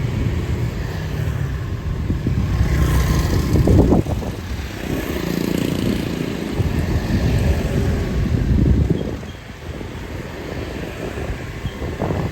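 Motorbike engines running and passing close by amid street noise, the rumble swelling and fading as they go by.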